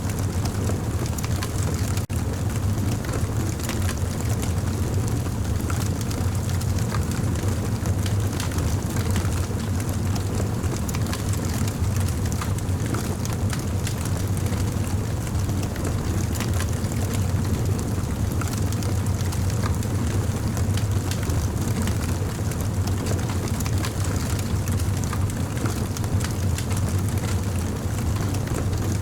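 Campfire burning: a steady low rumble of the flames with frequent small crackles and pops of burning wood scattered throughout.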